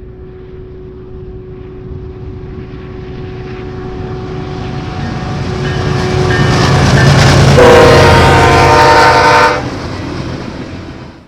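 A BNSF diesel locomotive leading a train approaches, its engine rumble and rail noise growing steadily louder. About seven and a half seconds in it sounds its air horn in one blast of about two seconds, then the rumble carries on and falls away abruptly near the end.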